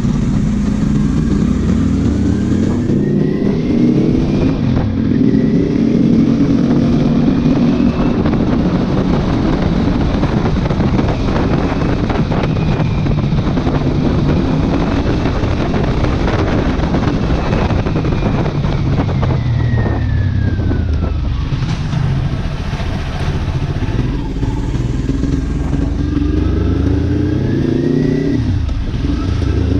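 Kawasaki Ninja 400's parallel-twin engine through an aftermarket exhaust, pulling up through the gears with a drop in pitch at each shift, then held at high revs. Near the middle the revs fall off, then it accelerates through the gears again. Heavy wind noise on the microphone runs underneath.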